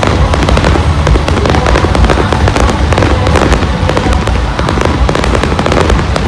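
Fireworks display going off in a dense, continuous run of crackles and bangs.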